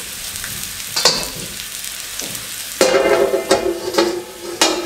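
Sweet potatoes sizzling in oil on a hot iron tawa, with a knock about a second in. Near the three-second mark a domed metal cover is put over them and scrapes on the tawa with a ringing metallic sound.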